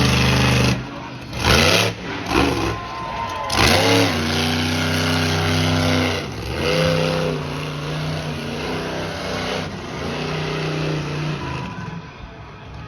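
Monster truck engine revving hard: the pitch drops and climbs again several times, with short loud blasts of noise in the first few seconds, then eases off near the end.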